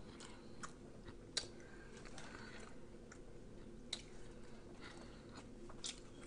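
A person chewing food with the mouth closed: a few faint, scattered wet clicks over quiet room hum.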